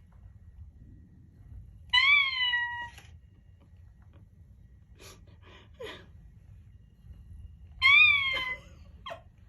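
Sony aibo robot dog giving two meows, each about a second long, rising then falling in pitch, with a few faint clicks between them.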